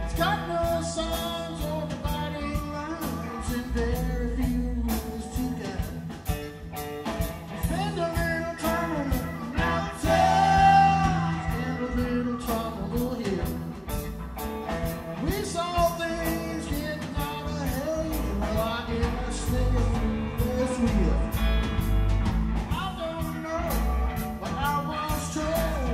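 Live blues-rock band jamming: an electric guitar lead with bending notes over bass and drums.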